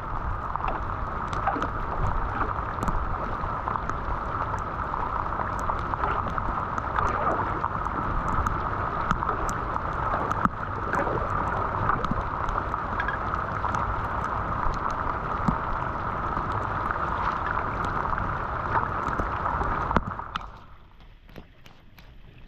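Floodwater rushing and gurgling down a cleared street storm drain, a steady rush with small knocks and clicks of debris, cutting off suddenly near the end.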